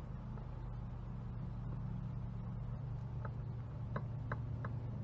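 A steady low hum, with a handful of short, light ticks starting about three seconds in.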